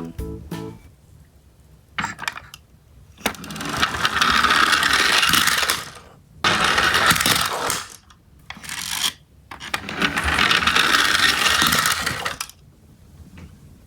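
Toy garbage truck minicars rolling down a sloped track, with three long rattling runs of a few seconds each and a few sharp clicks between them.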